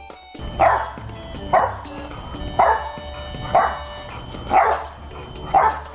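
A dog barking steadily, six barks about one a second, over background music.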